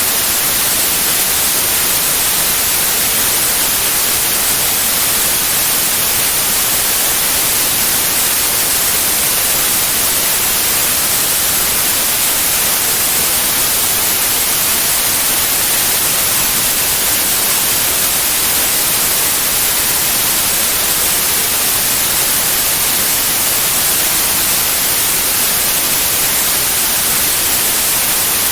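Steady white noise: an even, unbroken hiss, brightest in the treble, that keeps the same level throughout.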